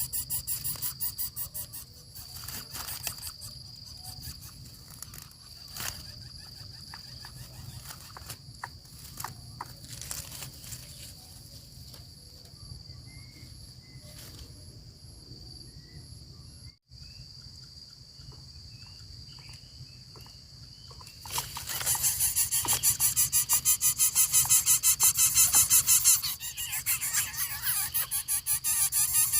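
Steady high trill of crickets or other insects, with scattered clicks and knocks. About three-quarters of the way through, a much louder rapid rasping buzz starts and carries on.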